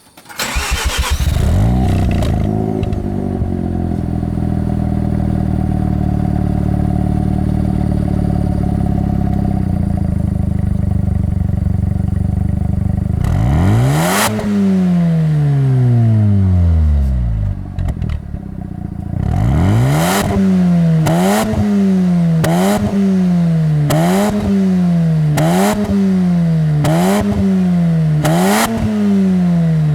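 Mazda RX-7 FD3S's twin-rotor 13B rotary engine, heard through an RE Amemiya TA replica 'dolphin tail' muffler. It starts up and settles into a steady idle. About halfway through it gets one long rev that rises and falls away, then a run of quick throttle blips, about one a second.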